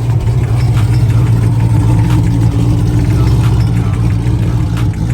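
Car engine running steadily with a deep, even exhaust rumble.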